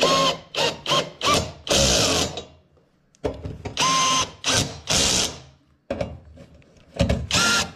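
Cordless power drill run in about ten short trigger bursts, each spinning up with a rising whine, with a pause of about a second in the middle.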